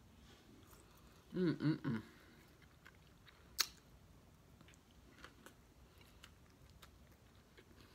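A person chewing food with wet mouth clicks, with a brief hummed "mm" of the voice about a second and a half in and one sharp lip smack a little later.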